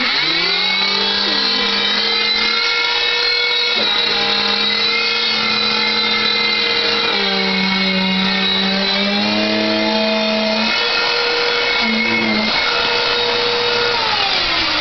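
Vacuum cleaner switched on, its motor whine rising quickly as it spins up, then running steadily with small shifts in pitch as it sucks cookie crumbs off a chair.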